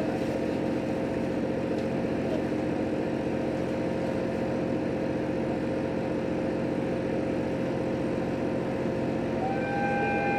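Cabin noise of a JR Hokkaido H100 diesel-electric railcar under way: a steady hum and the rumble of the running gear. A short, clear tone sounds near the end.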